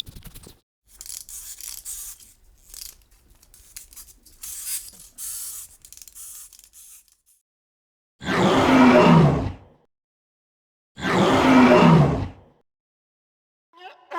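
An animal giving two loud, rough, low-pitched calls, each about a second and a half long and falling in pitch, after several seconds of faint scratchy hissing.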